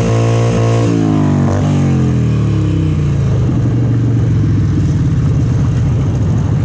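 Harley-Davidson Sportster's V-twin engine held at high revs, then about a second in the revs fall away over a couple of seconds and it settles into a low, pulsing run: the burnout is over and the bike rolls on.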